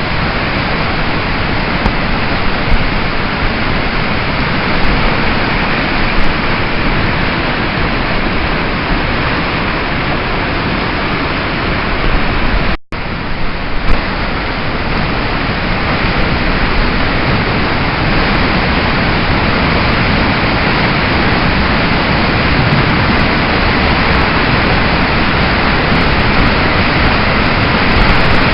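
Loud, steady rush of fast-flowing river water, broken by a momentary gap about thirteen seconds in.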